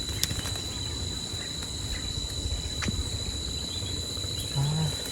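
Insects calling in a steady, unbroken high-pitched drone over a low rumble, with a couple of faint clicks.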